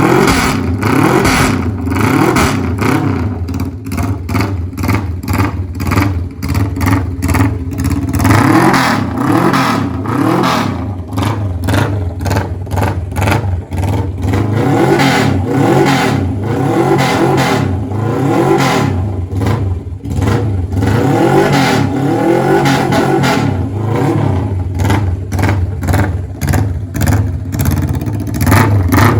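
Suzuki GS400 motorcycle's air-cooled parallel-twin engine running and revved over and over, its pitch rising and falling in quick blips of the throttle.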